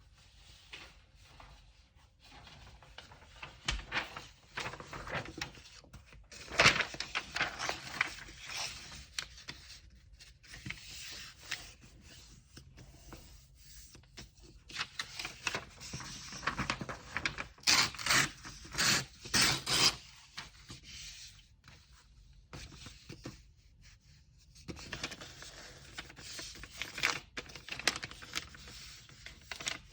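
Kraft paper and packing materials being handled by hand: irregular rustling, crinkling and scraping with short pauses, and four louder sharp rasps in quick succession a little past the middle.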